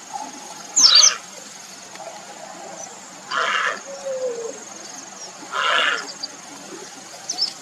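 Grey heron giving harsh, croaking calls, three short ones about two seconds apart, the first the loudest; a faint steady high-pitched tone runs underneath.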